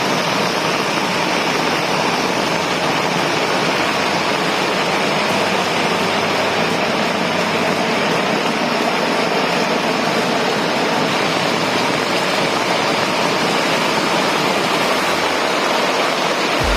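Heavy rain falling, a loud, steady hiss of rainfall.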